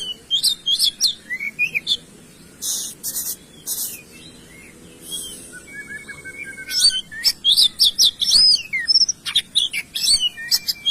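Songbird singing in quick bursts of high, sharp chirps and short glides. There is a quieter stretch with a held whistle in the middle, then a long, fast run of chirps in the second half.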